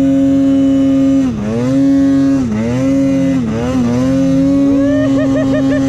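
2021 Polaris Pro RMK 850 two-stroke snowmobile engine running hard at high revs through deep powder, its note dropping briefly three times as the throttle eases and comes back on. Near the end a second, faster engine note rises and falls several times over it.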